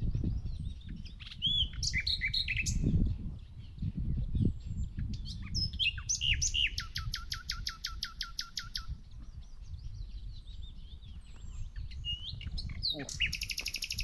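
Wild songbirds singing: assorted chirps and short whistles, with a fast rattling trill of about seven notes a second starting about six and a half seconds in and lasting about two seconds, and another trill near the end. A low rumbling noise runs underneath.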